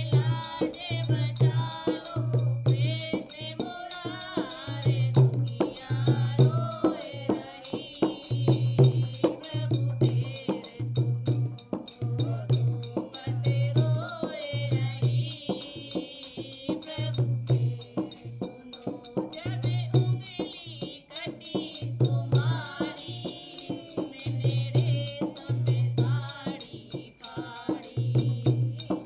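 Hindi devotional bhajan: a singing voice carrying a wavering melody over a steady low drum beat and fast, continuous jingling percussion.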